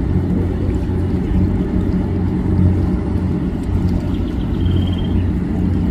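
A river launch's engine running steadily, a loud, even low drone.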